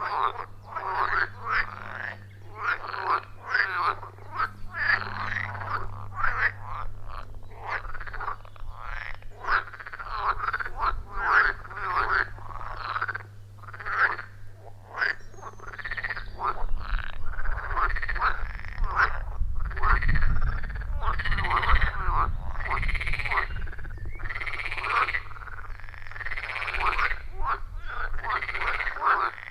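A chorus of pond frogs croaking in dense, overlapping calls. In the second half the calls turn into distinct rising-and-falling croaks about once a second, over a low rumble.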